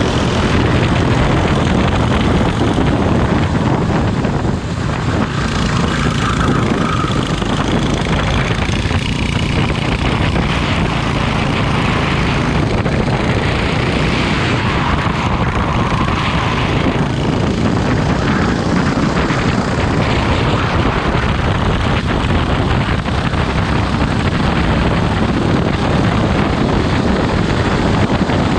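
Racing kart engine running continuously, with a dense, steady rush of noise.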